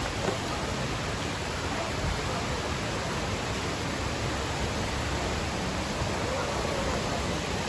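Steady rushing roar of falling water from the Dudhsagar waterfall, an unbroken noise with no change in level.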